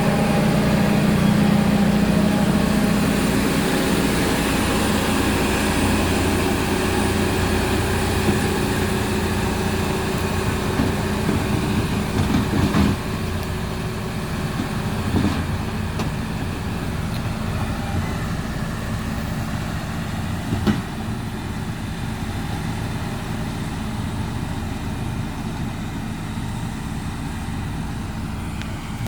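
Diesel engine of heavy road-building machinery running steadily, with a strong low hum that eases off about halfway through. A few short knocks come through over it.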